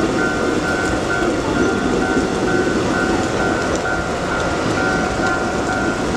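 Level-crossing warning bell dinging about twice a second, steady and unbroken, over the dense hiss and rumble of heavy rain.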